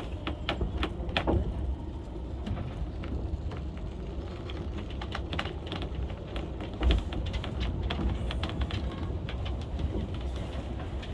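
Funicular cliff railway car running down its track: a steady low rumble with irregular clicks and rattles, and a single louder thump about seven seconds in.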